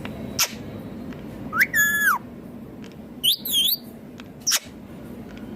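Indian ringneck parakeet calling: a sharp chirp, then a whistled call that rises, holds and drops, a second whistle that swoops down and up, and another sharp chirp near the end.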